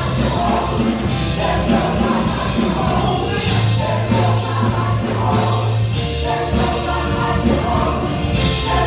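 Gospel praise and worship music: voices singing together over instrumental backing with long held bass notes.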